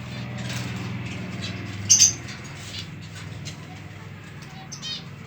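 Finches chirping: many short high chirps, with one loud call about two seconds in and another short call near the end.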